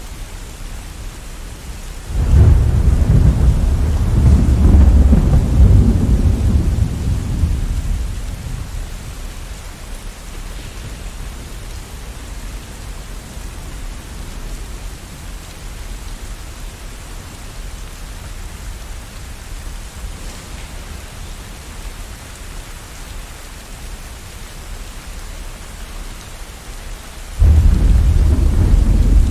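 Steady rain with two claps of thunder. The first starts suddenly about two seconds in and rumbles away over about six seconds. The second breaks in suddenly near the end.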